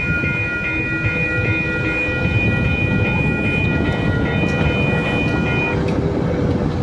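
Amtrak Capitol Corridor passenger train passing close by, a steady loud rumble of wheels on rail. Over it, a grade-crossing warning bell rings steadily until it stops about six seconds in.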